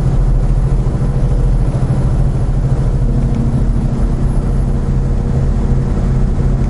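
Vehicle engine and road noise heard from inside the cab while driving, a steady low hum whose note shifts about three seconds in.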